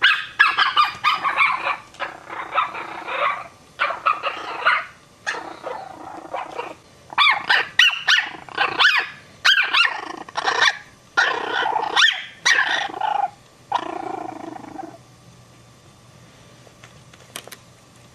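Small dogs barking in quick, high-pitched runs with some growling, a Maltese and a Chihuahua puppy barking at each other; the barking stops about three seconds before the end.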